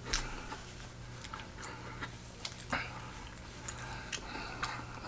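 Faint, scattered wet mouth clicks of someone chewing soft chicken tetrazzini pasta, a tick every half second or so, over a low steady hum.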